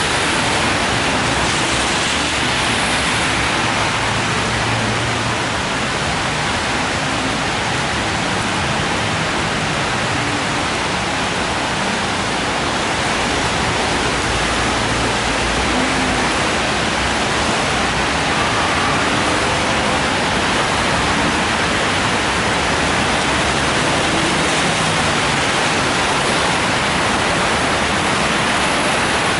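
Steady hiss of rain mixed with traffic running on a wet road, with some low rumble from passing vehicles.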